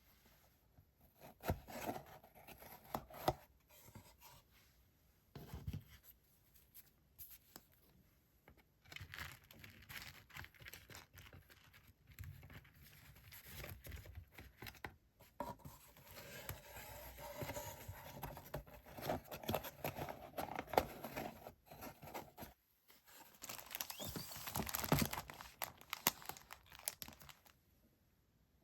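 Paper and wrapping being handled: a few sharp taps, then long stretches of irregular crinkling and rustling.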